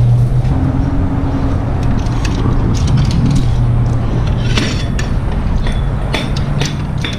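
A steady low machine hum, with light clinks and knocks of objects being handled starting about four and a half seconds in.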